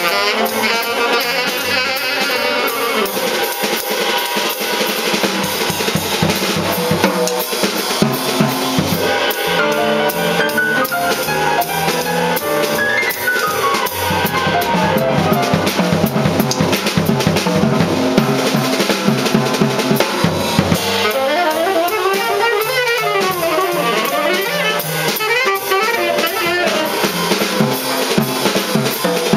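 Live jazz quartet playing, with the drum kit out front: dense snare hits, rimshots and bass drum throughout, and pitched runs rising and falling over the drumming.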